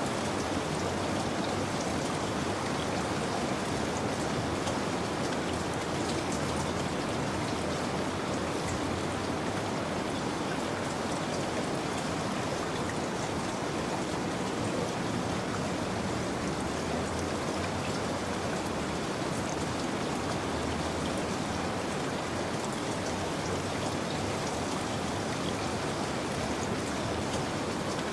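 Steady rain falling, a constant hiss with fine drops pattering on a surface.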